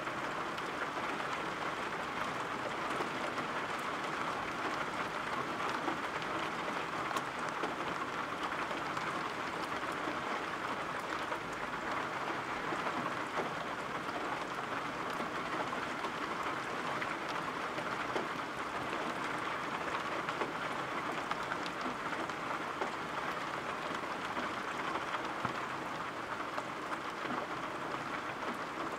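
Steady rainfall, an even hiss with no breaks or swells.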